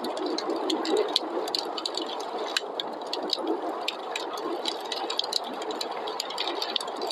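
Wood fire crackling, with many sharp irregular pops and snaps over the steady rushing noise of a snowstorm wind.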